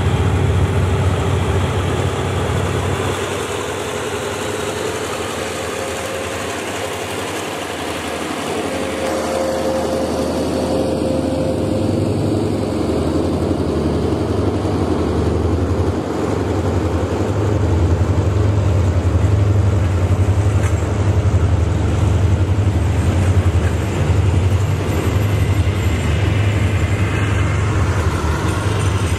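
Hitachi diesel-electric locomotive pulling a passenger train out of the station, followed by a long line of coaches rolling past on the rails with a steady low rumble that grows louder in the second half.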